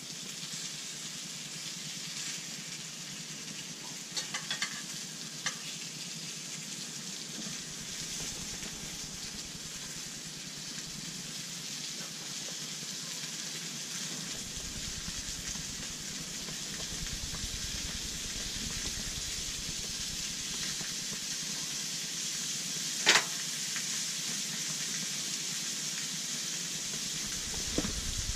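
Perch fillets sizzling as they fry in a copper pan on a portable propane camp stove: a steady hiss. A few light clicks come a few seconds in, and a single sharp clack comes about two-thirds of the way through.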